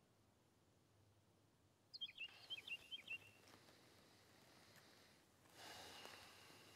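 Quiet woodland ambience with a bird giving a quick run of about six short high chirps about two seconds in, followed near the end by a soft rustling hiss.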